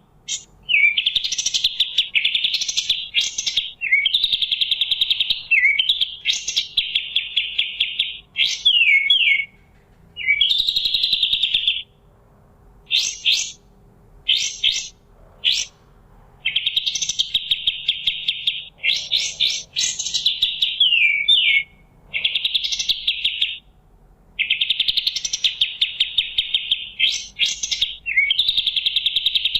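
Kapas tembak songbird singing: rapid, buzzy trilled phrases of one to three seconds, broken by sharp down-slurred notes and short pauses, repeated over and over.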